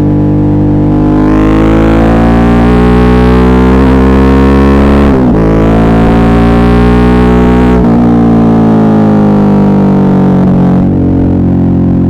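Suzuki V-Strom 650's V-twin engine pulling hard, its pitch climbing, breaking at a gear change about five seconds in, climbing again, then breaking near eight seconds and falling steadily as the bike slows. Picked up by earbud microphones, it sounds distorted.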